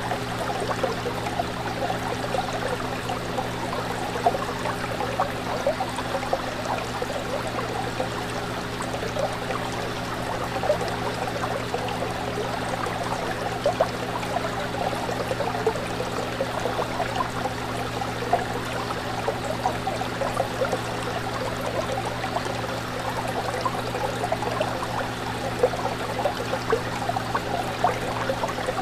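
Fish tank water bubbling and trickling steadily over a low, even hum.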